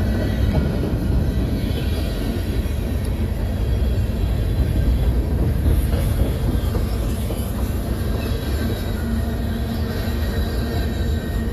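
Freight train cars rolling past at steady speed: a continuous low rumble of steel wheels on rail with a faint thin ring from the wheels.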